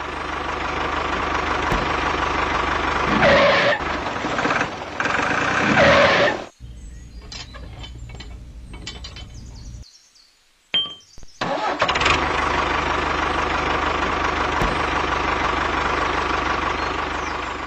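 Small electric motor pump running steadily. It cuts off about six and a half seconds in; after a quiet gap with a few clicks it starts again about twelve seconds in and runs on.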